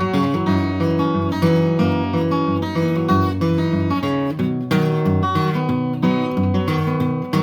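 Acoustic guitar strumming a steady chord pattern in a song's instrumental introduction.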